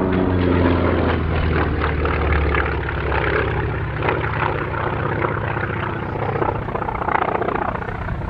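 Grumman FM-2 Wildcat's radial piston engine and propeller as the fighter flies past: the pitch falls at the start as it passes, then a steady drone that turns rougher and noisier later on.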